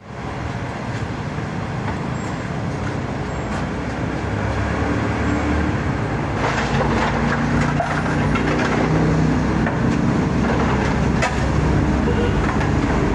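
An engine running steadily with a low hum, with scattered light clicks and rattles over it. It grows a little louder after about four seconds.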